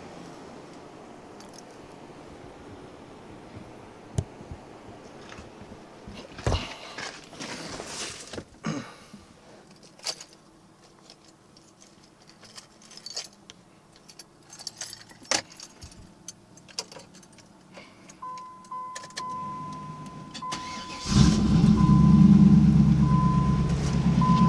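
Keys jangling and scattered clicks and knocks, then a steady high tone comes on. About three seconds later the 1993 Pontiac Trans Am's LT1 V8 fires on a cold start and keeps running loudly through its Flowmaster exhaust.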